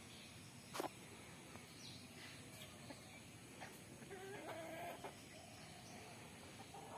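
Domestic hens clucking faintly in short calls, with a louder run of clucks about four to five seconds in. A sharp click comes just under a second in.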